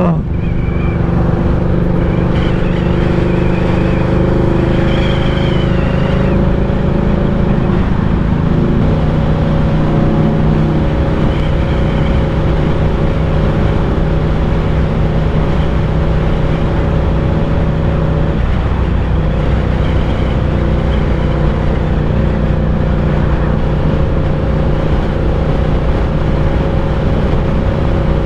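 Ducati Diavel 1260's L-twin engine running at a steady cruising speed on the road, with rushing noise from the wind.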